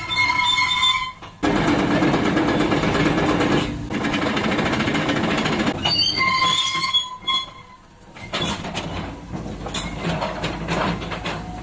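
Cat 320GC crawler excavator running and working, with two high metallic squeals and, late on, a run of sharp metallic clanks.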